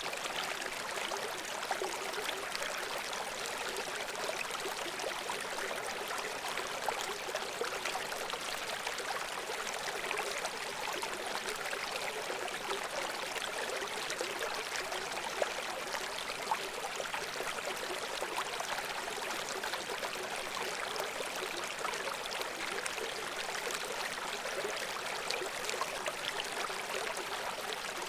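Shallow brook water running and babbling over stones: a steady rushing with many small splashes and gurgles.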